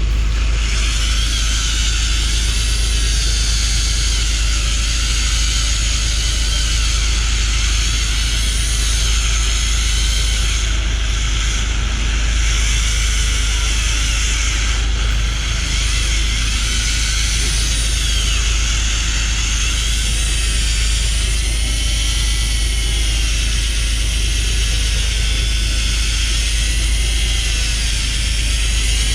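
Steady drone of a fishing boat's engine mixed with wind and water noise, loud throughout. A faint whine wavers up and down in pitch in the second half.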